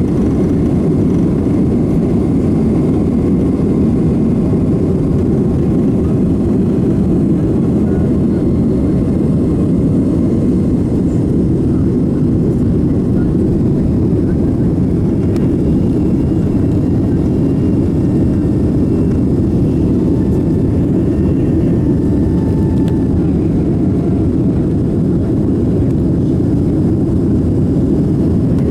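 Boeing 767-300 jet engine and airframe noise heard inside the cabin: a loud, steady low rumble with faint thin tones above it.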